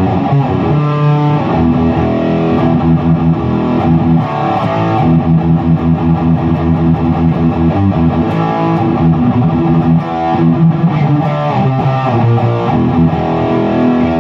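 Electric guitar played loud through a Peavey 6505+ combo amp with a Zoom G1X Four multi-effects pedal in the amp's effects loop, a continuous run of picked notes and chords with some distortion. It is a tone the player still isn't happy with.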